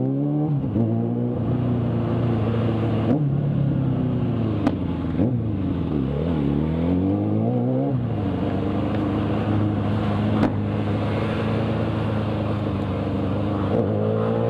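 Motorcycle engine running steadily while the bike is ridden. Its pitch falls and rises several times between about four and eight seconds in, as it is throttled off and on.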